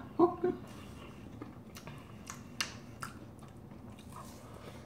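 Wet chewing and mouth sounds of people eating juicy citrus segments, with scattered soft smacks and clicks. A short vocal sound comes right at the start.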